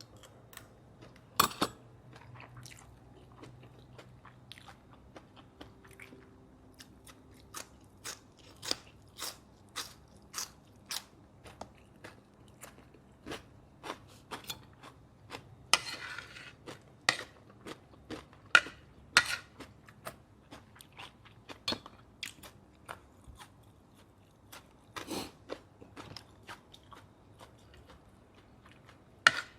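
Close-miked mouth sounds of a person chewing grilled pork neck salad with rice: wet, crunchy chewing clicks about two a second, with a few sharper, louder clicks.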